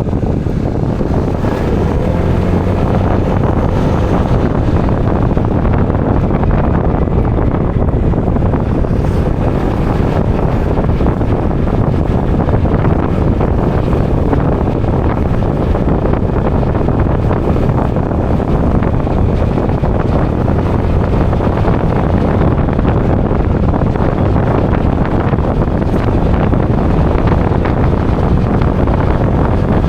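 Steady, loud wind buffeting the microphone of a moving motorbike, with the bike's engine running underneath.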